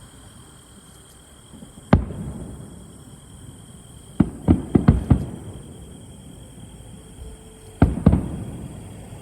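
Fireworks shells bursting with loud, echoing booms: one bang, then a quick run of about five, then two more close together near the end.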